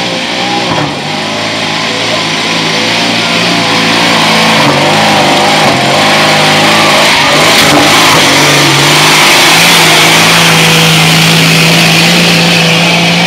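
A Jeep's engine revving hard under load as it climbs a steep rocky trail. The revs rise and fall with the throttle, then hold steady and high for the last few seconds.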